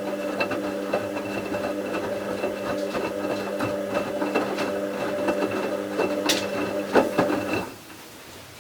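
Bauknecht WA 7778 W washing machine running: a steady hum with many small rattling clicks, which cuts off suddenly near the end, leaving faint ticking.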